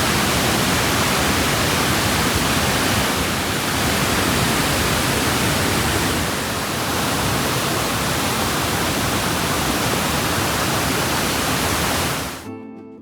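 Waterfall close by: a loud, steady rush of falling water that cuts off suddenly near the end.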